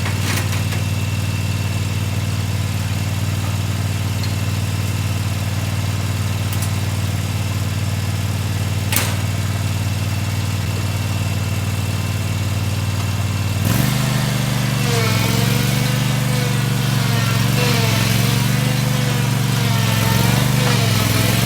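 Mini excavator's engine running steadily at low speed, then stepping up to a higher, wavering pitch about two-thirds of the way through as it takes load from the hydraulics. A couple of sharp clicks or knocks come before the change.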